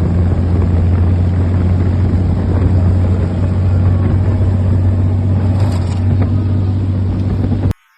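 A steady, loud engine-like drone with a rushing noise over it, cut off suddenly near the end.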